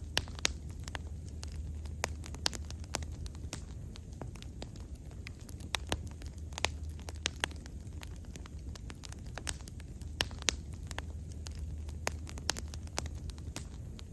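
Bonfire burning, with irregular sharp crackles and pops, several a second, over a steady low rumble of the flames.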